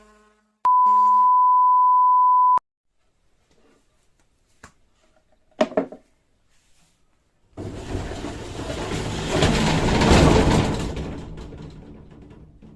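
A loud, steady beep tone lasting about two seconds, a few faint clicks, then a rushing noise that swells and fades away over about five seconds.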